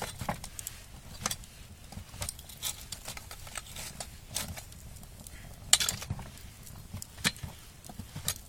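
Firewood burning in a wood fire, crackling with irregular sharp snaps and knocks, the loudest a little before six seconds in.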